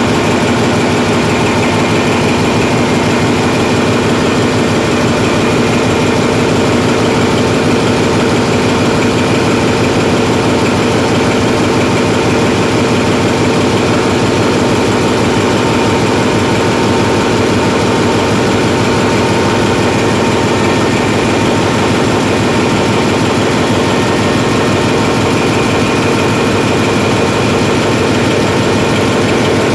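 Hyundai Himsen marine diesel generator running loud and steady at constant speed, with no rise in pitch or trip.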